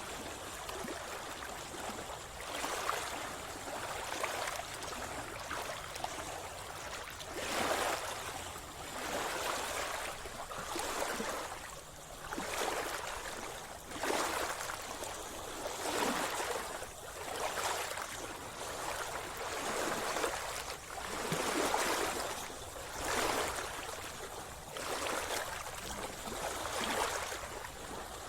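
A swimmer's strokes in the sea: water splashing and swirling in a steady rhythm, a soft surge roughly every one and a half seconds.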